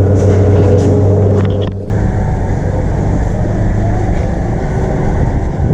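Car engine running: a steady low hum that breaks off suddenly about two seconds in, giving way to a rougher low rumble.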